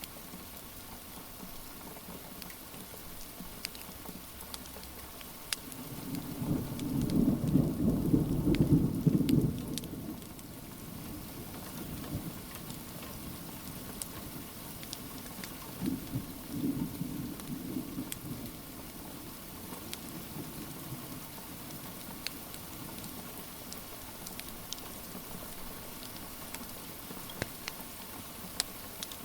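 Steady rain, with a roll of thunder rumbling low for about four seconds starting some six seconds in and a weaker rumble later. Scattered sharp crackles of a wood fire sound over the rain.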